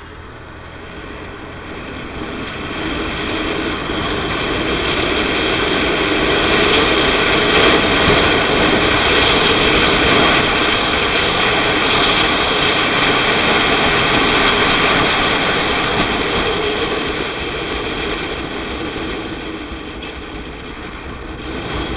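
Engine drone carrying a stack of steady tones over a noisy rush. It swells over the first few seconds, is loudest from about six to fifteen seconds in, then eases off toward the end.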